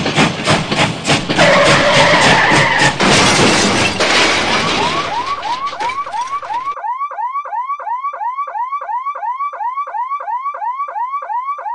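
Battery-powered toy train running with a loud, fast rhythmic clatter and a brief whistle-like tone. Then a wailing siren sound, about three quick rising-and-falling sweeps a second, starts up and carries on alone after the clatter cuts off suddenly about halfway through.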